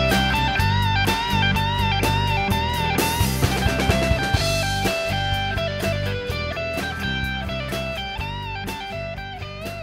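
Rock music with no singing: an electric guitar plays a bending lead melody over bass and drums, with a cymbal crash about three seconds in. The song fades out over the second half.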